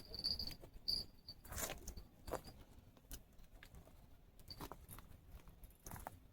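Irregular scuffs and light knocks of footsteps and handling on dry ground, with a few brief high-pitched tone blips in the first second and a half.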